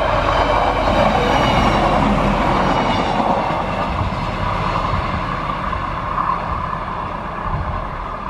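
A Stadler GTW 2/6 diesel railcar passes and runs off into the distance, its engine and running noise loudest in the first few seconds and slowly fading.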